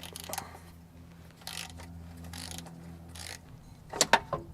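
Hand ratchet wrench being worked in several short runs of clicking, over a low steady hum, with a few sharp metal clanks about four seconds in.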